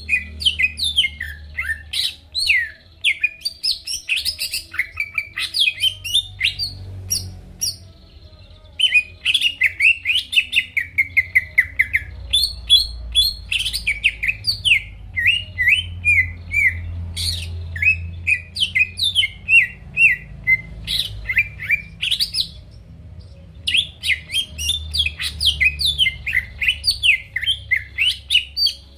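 Green leafbird (cucak ijo) in full song ('gacor'), pouring out rapid runs of sharp whistles and chirps. There are brief breaks about seven to nine seconds in and again around twenty-two seconds.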